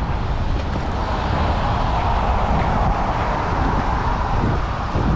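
A car coming up from behind and passing, its road noise swelling in the middle and easing off, over a steady low rumble.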